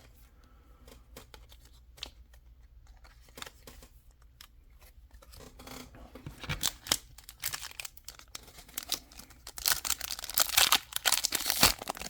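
Foil Pokémon TCG booster pack wrapper being handled and torn open. Faint scattered crinkles build into loud, continuous crackling tearing near the end.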